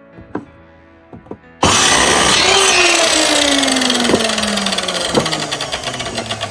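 A few light knocks, then about one and a half seconds in an electric mitre saw starts abruptly and runs loudly through a wooden plank, its pitch falling steadily.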